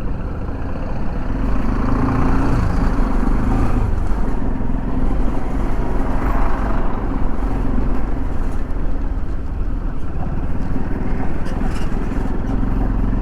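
A motor vehicle's engine running steadily on the move, with heavy wind rumble on the microphone.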